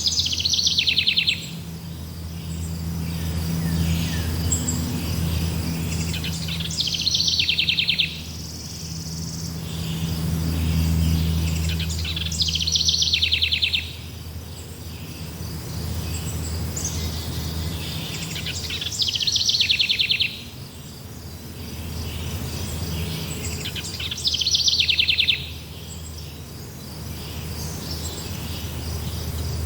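A bird's fast buzzy trill repeating about every six seconds, five times, over steady insect chirring and a low hum.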